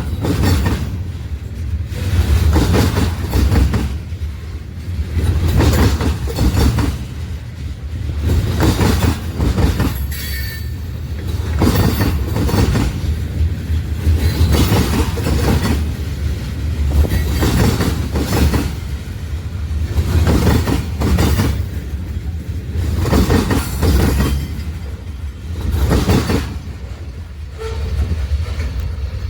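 Union Pacific Big Boy No. 4014, a 4-8-8-4 articulated steam locomotive, running with its train: a steady deep rumble under rhythmic beats about once a second, the loudness swelling and easing every couple of seconds.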